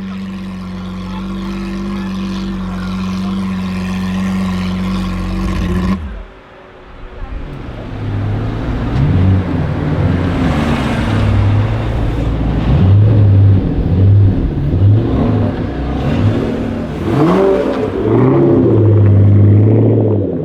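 Lamborghini Aventador's V12 with an aftermarket Capristo exhaust, revved hard in a series of blips, its pitch rising and falling with each rev. Before it, a steady engine drone holds for about six seconds, then cuts off.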